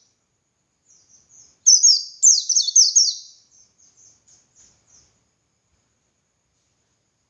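Pleci (white-eye, Zosterops) singing: a loud burst of rapid, high-pitched, downward-sweeping twittering notes about two seconds in, trailing off into softer chirps.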